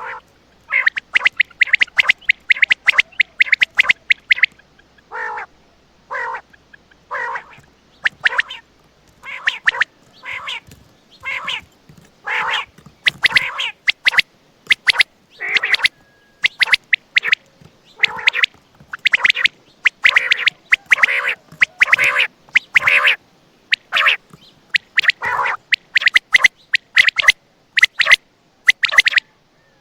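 Common quail (batair) calling over and over: short, sharp notes in quick clusters with brief pauses between them.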